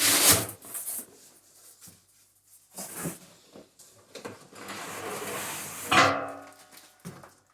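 Handling and unpacking the smoker's parts: a loud scrape or knock at the start, then rustling packaging, with a brief pitched cry about six seconds in.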